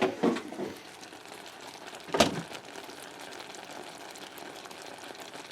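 Cinnamon apples cooking in a pan with a steady, faint sizzle, and a single sharp clink about two seconds in.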